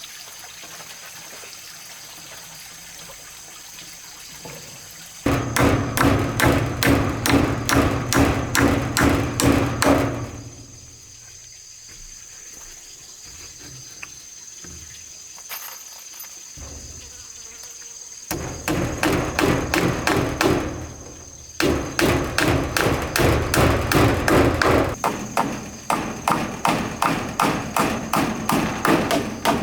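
Rapid, evenly spaced hammering on wood, about three to four blows a second, in three runs with short pauses between. Insects drone steadily and high-pitched underneath.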